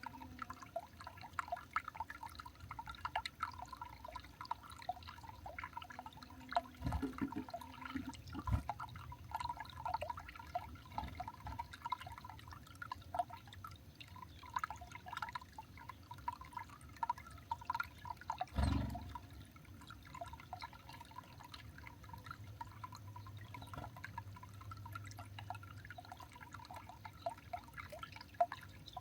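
Irregular light ticking and dripping sounds. Three dull low thumps come about seven, eight and a half and nineteen seconds in, the last one the loudest.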